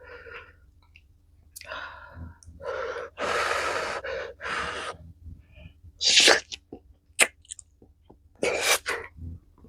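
A person sneezing and blowing out sharp breaths, a reaction to the heat of very spicy tteokbokki. There is a run of breathy bursts, and the loudest comes about six seconds in.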